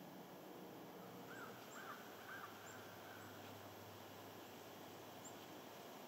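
Faint outdoor ambience with a distant bird calling three times in quick succession about a second and a half in, and a few very faint, high, short chirps scattered through.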